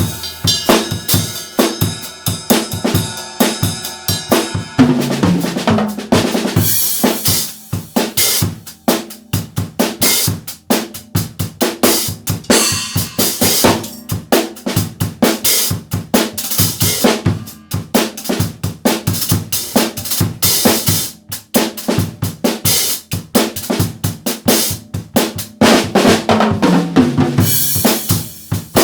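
Yamaha acoustic drum kit played loudly: bass drum, snare with rimshots, and Zildjian cymbals in fast, busy patterns, with a burst of ringing tones in the first four seconds or so.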